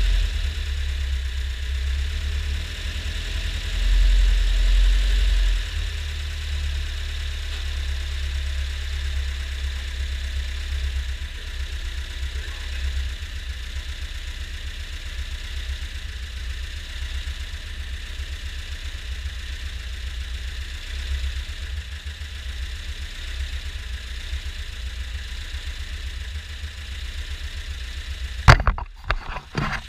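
Lada VAZ 21053's 1500 cc carburetted four-cylinder engine idling with a steady low rumble, swelling briefly about four seconds in. Near the end there is a sharp knock, then rustling and knocks as the camera is handled.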